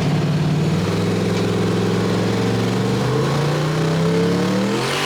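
Pickup truck engine held at steady revs, then climbing in pitch over the last two seconds as the truck launches hard, with a rush of noise right at the end. Heard from inside the cab.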